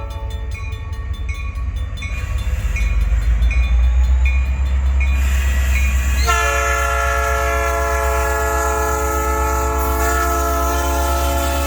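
Canadian National freight locomotive's air horn blowing over the heavy low rumble of the passing train. The horn stops just after the start and sounds again suddenly about six seconds in, holding to the end. A bell dings about twice a second through the first half.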